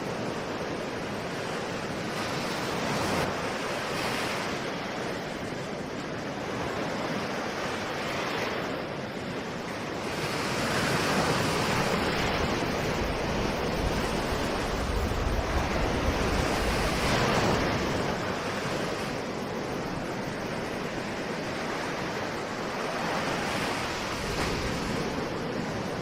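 Ocean surf: waves breaking and washing in a continuous rush that swells and eases every few seconds, growing louder for a stretch in the middle.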